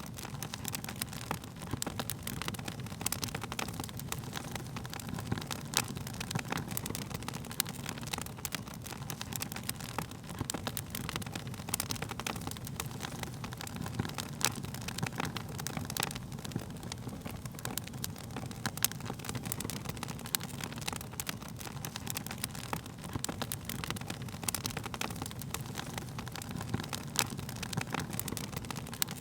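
Wood fire crackling, with frequent sharp pops and ticks over a steady low rumble of burning flames.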